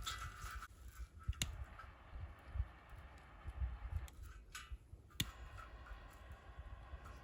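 Campfire wood crackling, with a few sharp pops over a low rumble.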